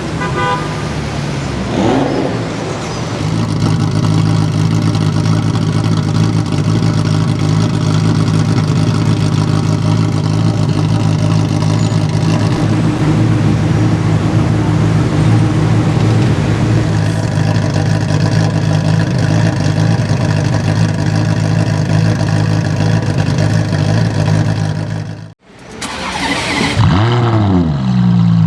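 Ferrari F40's twin-turbo V8 idling steadily at a constant pitch. Near the end the sound cuts out briefly, and then the engine is revved in blips, its pitch swinging up and down.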